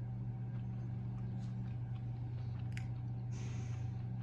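A man chewing soft banana fritter, with a few faint mouth clicks and a brief hiss a little over three seconds in, over a steady low hum.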